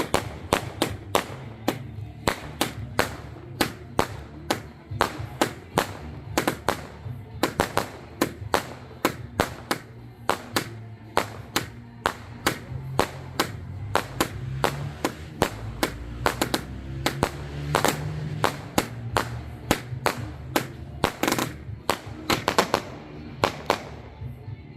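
Firework bangs and cracks, several a second in an irregular barrage, over music playing underneath.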